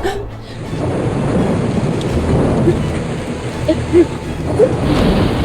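Steady rain falling with a low rumble of thunder, with a few short faint pitched sounds over it.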